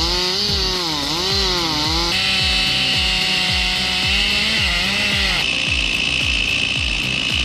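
Stihl MS 361 two-stroke chainsaw cutting through oak, its engine pitch wavering as it loads and frees up in the cut. Background music with a steady beat runs underneath.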